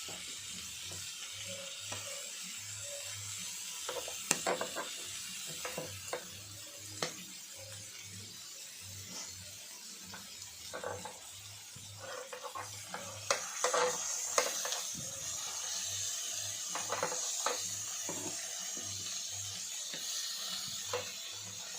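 Slices of meat sizzling on a non-stick electric grill pan, a steady high hiss. Scattered clicks and knocks come from utensils against the pan, busiest about two thirds of the way in.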